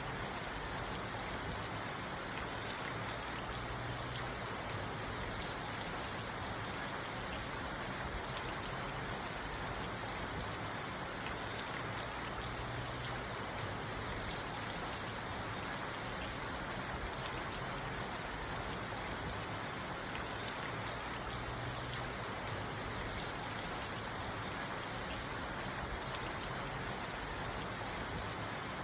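Steady rain falling on a parked car, heard from inside the cabin: an even hiss with scattered light drop ticks.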